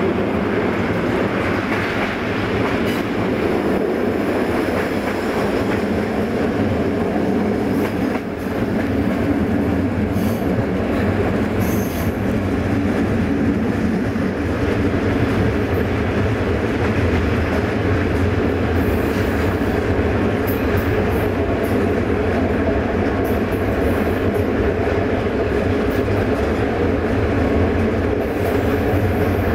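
Passenger train coach running along the track, a steady rumble of wheels on rails heard from on board, with a few brief high-pitched sounds about ten and twenty seconds in.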